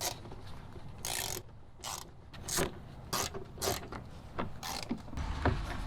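Small hand ratchet with a screwdriver-bit socket clicking in short bursts, about one every two-thirds of a second, as it backs out trim screws. A low rumble comes near the end.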